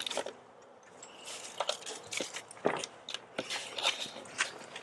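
Stiff black tar paper crackling and rustling in irregular sharp crackles as it is handled and laid against the side of a bee hive.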